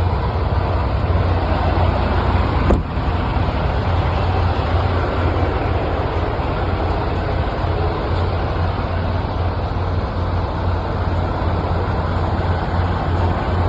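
A semi truck's diesel engine running: a steady low hum under an even rush of noise, with one short click about three seconds in.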